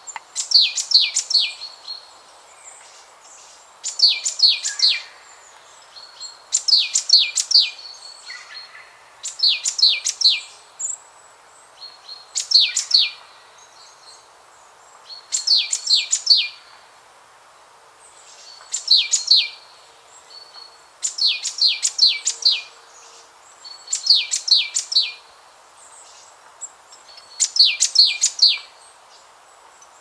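A bird singing the same short phrase of rapid high notes over and over, about one phrase every two to three seconds, over a steady hiss of background noise.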